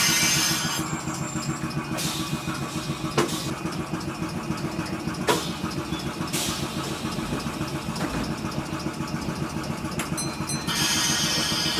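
A Tokyu Deha 150 tram car standing still, with a steady, rhythmic mechanical chugging. A burst of hissing comes in the first second and again near the end, and there are two sharp knocks in between.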